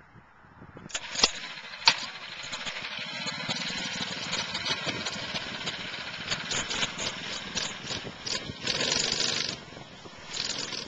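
Mini bike's 6.5 hp Honda-clone single-cylinder four-stroke engine running steadily, after a few sharp clicks about a second in. A louder burst of noise comes near the end.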